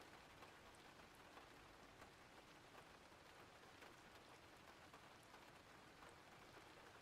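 Faint, steady rain: an even hiss with scattered faint drop ticks.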